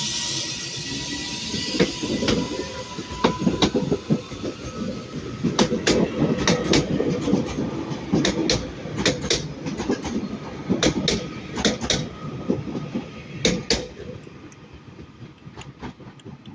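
Class 397 electric multiple unit pulling out of the station, its wheels clattering in groups of clacks over points and rail joints and fading as it draws away. A hiss at the start.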